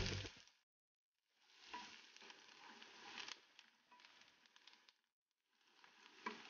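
Chopped onions frying in oil in a non-stick pan while being stirred with a wooden spatula: a faint sizzle with scattered crackles, a little louder at the start. The sound cuts out completely twice, for about a second each time.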